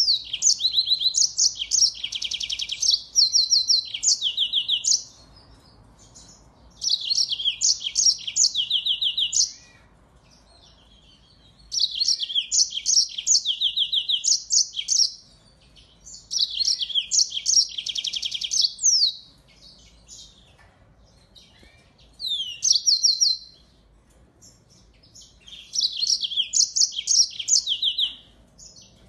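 A finch singing bright, high song phrases of fast trills and chirps, each lasting two to four seconds, with pauses of one to three seconds between them.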